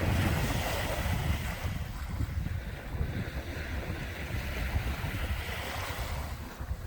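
Sea waves washing in, a hiss of surf that swells and eases, with wind buffeting the microphone in gusts.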